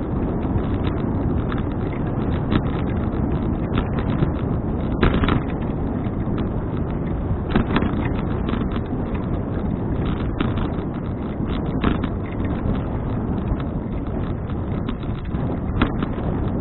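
Wind rushing over an action camera's microphone during a bicycle ride, with frequent small clicks and knocks from the bike.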